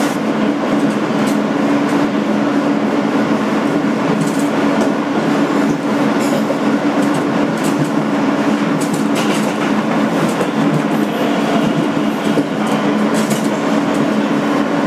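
Kawasaki R-160B subway car with Alstom ONIX AC traction motors running between stations, heard from inside the car: a steady hum over the ride noise, with scattered clicks of the wheels over rail joints.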